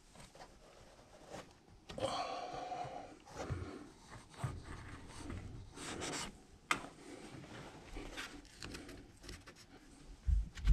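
Hands rubbing and scraping across a sheet of material as it is pressed into place, with scattered light clicks and a low thump near the end.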